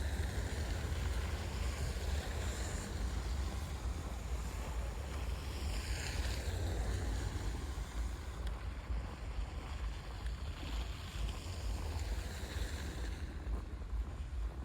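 Wind buffeting the microphone in a steady low rumble, over a hiss of outdoor noise that swells twice, about six seconds in and again near the end.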